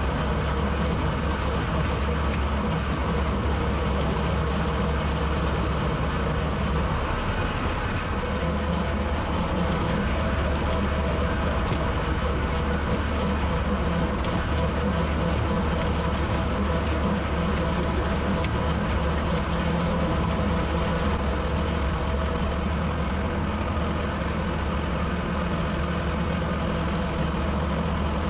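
Tractor engine running steadily while pulling a bush hog rotary cutter through the field, an unbroken low drone.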